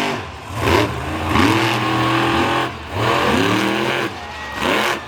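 Monster truck engines revving hard, with the pitch climbing and falling back about three times in quick succession.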